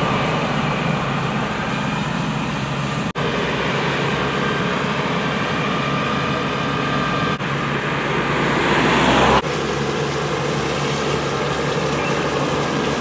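A vehicle engine running steadily with a low, even hum. A hiss swells for about a second and a half near the middle and then cuts off abruptly.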